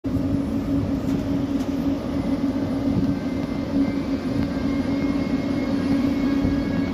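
EU07A electric locomotive starting away with an intercity train: a loud, steady electrical hum over running noise, with a fainter high whine joining about four seconds in.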